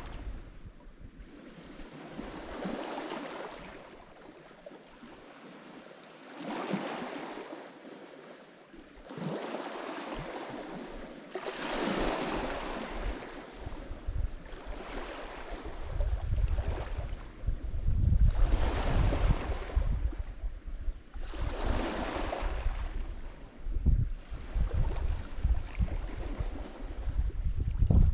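Lake Michigan waves breaking and washing up the shore, a new wash about every three to four seconds. From about halfway on, a heavy, irregular low rumble of wind buffeting the microphone joins in and becomes the loudest part.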